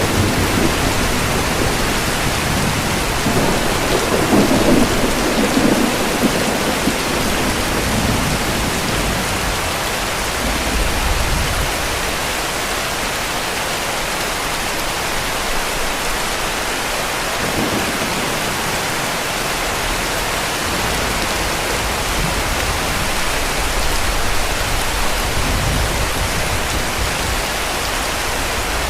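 Heavy rain falling in a steady hiss, with distant thunder rumbling low underneath, strongest a few seconds in.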